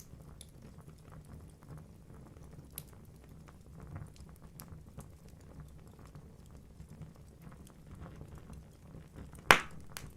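Wood logs burning in a fireplace: a steady low rumble of flames with scattered small crackles, and one loud sharp pop near the end.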